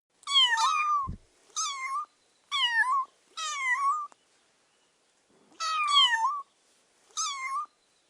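A kitten meowing: six high-pitched meows, four in quick succession, then a pause of about a second and a half before two more.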